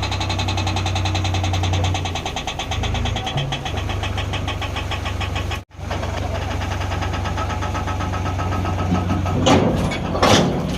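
Heavy diesel engine running steadily with an even, rhythmic beat. The sound cuts out for an instant a little over halfway through, and a few short noisy bursts come near the end.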